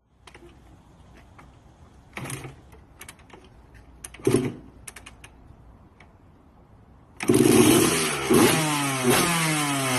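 Quiet scuffing with a couple of sharp knocks, then about seven seconds in a loud motorcycle engine cuts in, revving with its pitch falling away again and again.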